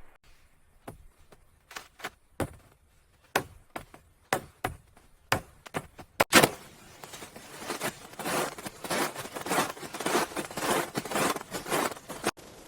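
A series of separate sharp knocks, a louder hit about six seconds in, then a quick, steady run of crunching strokes that stops near the end.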